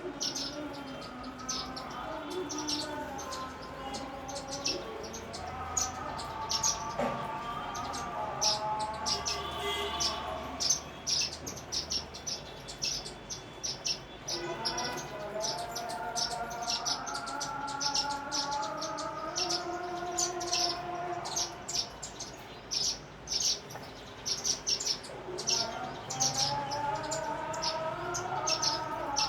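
Sparrows chirping: many short, sharp chirps repeated rapidly and overlapping throughout. A lower, voice-like pitched sound comes and goes in the background.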